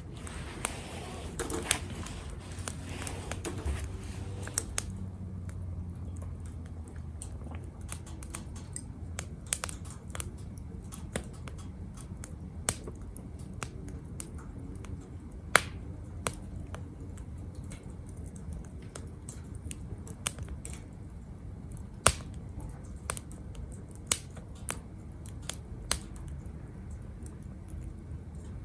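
Wood fire burning in a Captain Stag Kamado Smart Grill B6, crackling with irregular sharp pops. There is a hiss during the first few seconds, and two louder snaps come roughly halfway through and later on.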